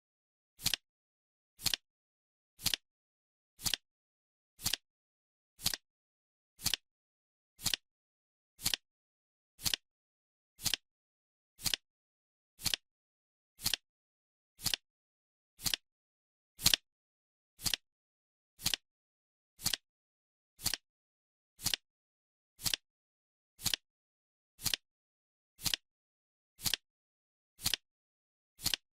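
Countdown timer's clock-tick sound effect: one sharp tick every second, perfectly even, with silence between the ticks.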